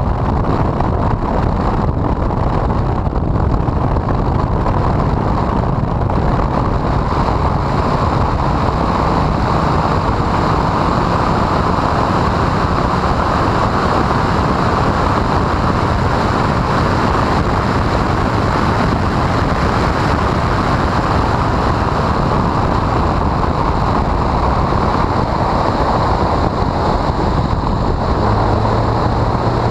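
Honda CRX engine and road noise at speed, largely buried under steady wind buffeting on the microphone.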